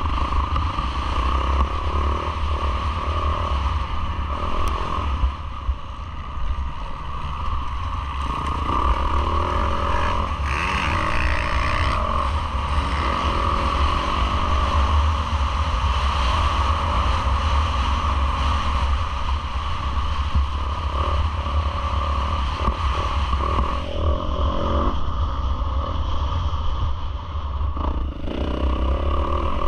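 Yamaha YZ450F four-stroke single-cylinder motocross engine revving up and down with the throttle during a race, with heavy wind rumble on the camera microphone. The engine note drops off briefly about 24 and 28 seconds in.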